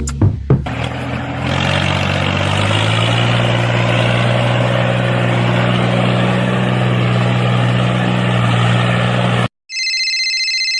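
Engine-like running sound of a mini tractor, steady and rising a step in pitch about two seconds in, then cut off abruptly near the end. A brief electronic ringing tone follows.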